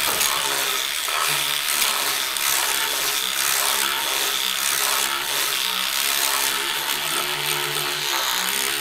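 Small electric cleaning brush running steadily as it scrubs soapy foam over textured plastic. Its motor hum wavers slightly in pitch as it is pressed against the surface.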